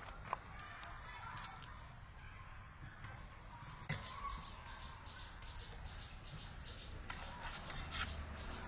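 A small bird chirping in short, high notes about once a second, with a few light clicks and taps as the wire ties are untwisted from a spit-roasted chicken.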